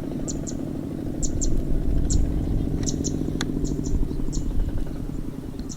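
Small tractor engine running steadily with a low, even pulsing, while a bird gives short high chirps, often in pairs, again and again.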